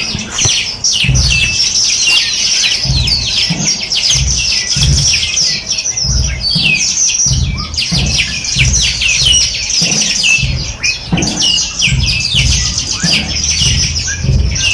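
Many small birds chirping and trilling at once, a dense, unbroken chorus of quick high notes, with an uneven low rumble underneath.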